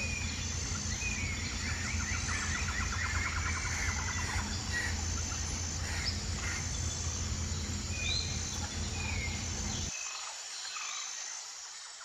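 Outdoor birdsong: scattered chirps and a trilling call a couple of seconds in, over a high note that repeats about once a second. A low rumble underneath cuts off suddenly near the end, and the sound then fades out.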